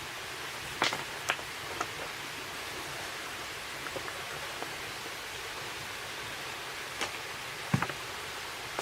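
Steady hiss of outdoor background noise, broken by a few short sharp knocks and clicks about a second in and again near the end.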